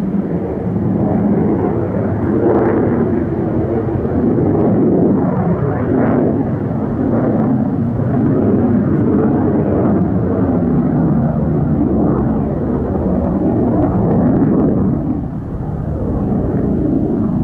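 Saab Draken jet fighter's afterburning turbojet roaring as it flies past, its sound echoing back off the chalk cliffs so that strange tones sweep up and down through the rumble.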